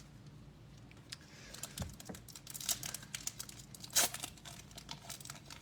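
Foil trading-card pack being torn open and its wrapper crinkled, a run of quick crackles and rustles that starts about a second and a half in and peaks near four seconds.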